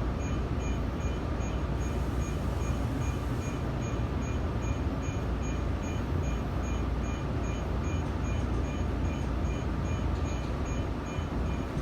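Tokyo Metro Tozai Line subway train running, heard from inside the carriage as a steady low rumble of wheels and motors while it pulls into a station, easing slightly near the end.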